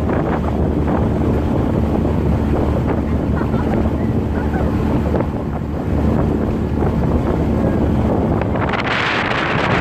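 Wind buffeting the microphone aboard a small sailing catamaran under way, with water rushing along the hulls and a faint steady low hum. A louder hiss of water comes in about nine seconds in.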